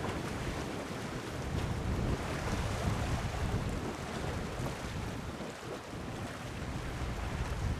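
Wind buffeting the microphone in gusts over the steady wash of the sea.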